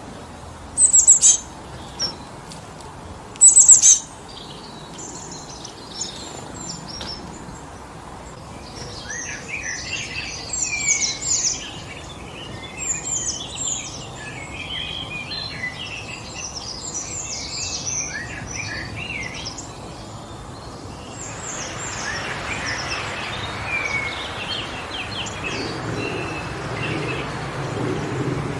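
Wild birds chirping and singing over a steady rush of wind through the trees. Two loud, sharp chirps come near the start, then a busier chorus of overlapping calls sets in, and about three-quarters of the way through the wind noise swells and partly covers the birds.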